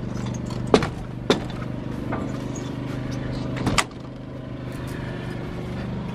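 An engine running steadily at idle, with three sharp knocks: one under a second in, another about half a second later, and a longer clunk near four seconds in.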